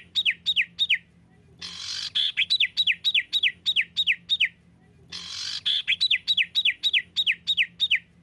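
Songbird song of the rapid 'tembakan' type used for bird training: a short buzzy lead-in followed by a quick string of about eight loud, clear notes, each sliding down in pitch. The same phrase repeats about every three seconds, with short pauses between.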